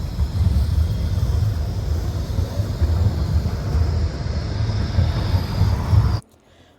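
Steady low rumble of a moving vehicle, cutting off abruptly about six seconds in.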